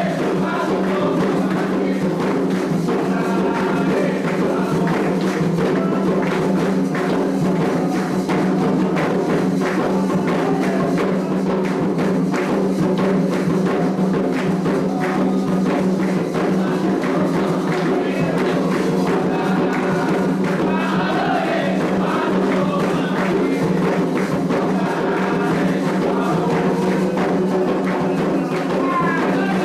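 Candomblé ritual music: dense, steady hand-drum and shaker or bell percussion under chanted singing, with the voices coming through most clearly about twenty seconds in.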